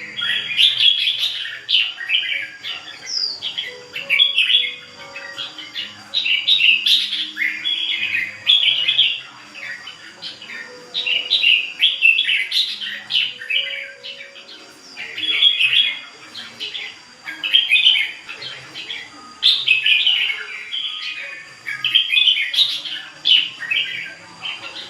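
Red-whiskered bulbul singing its 'ché' song: quick, loud warbling phrases given over and over with short pauses between them.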